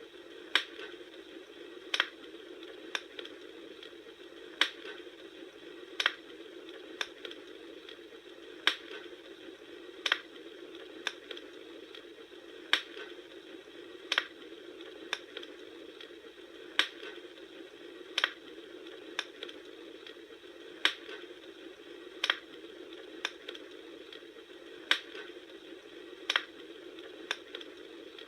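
Campfire crackling: a steady low hiss with sharp pops about once a second, some loud and some soft, the same pattern of pops coming round again every four seconds or so.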